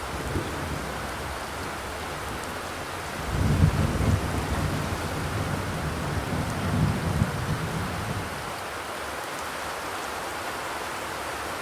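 Steady rain drumming on a corrugated zinc roof. A low rumble swells about three seconds in and fades out about five seconds later.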